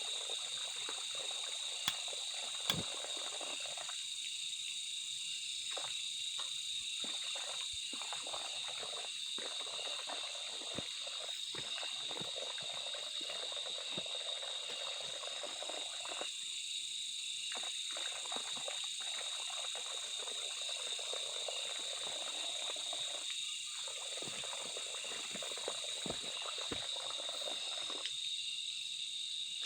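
Steady, high-pitched chorus of insects droning without a break. Beneath it runs a softer rushing hiss that drops out and returns every few seconds. Two sharp clicks come about two seconds in.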